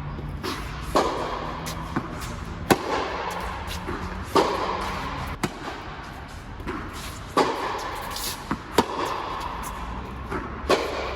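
Tennis rally: sharp knocks of balls struck by racquets, one of them a Yonex Percept 100D, and bouncing on the court, about one to two seconds apart.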